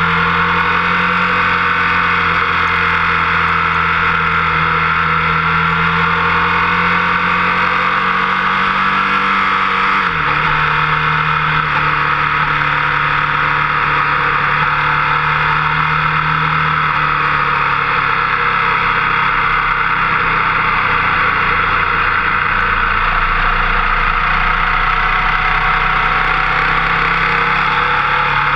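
Motorcycle engine running at speed on track, heard from a camera mounted on the front fork, with a steady note that changes about ten seconds in.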